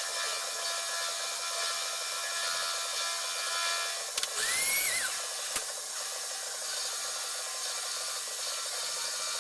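A power tool running steadily against a workpiece, with a short squeal that rises and falls about four seconds in and two sharp clicks around it.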